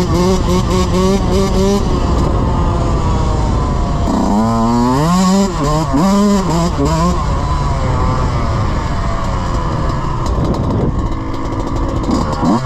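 Dirt bike engine running while being ridden, its pitch rising and falling several times with the throttle in the middle, then settling steadier, over a constant low rumble.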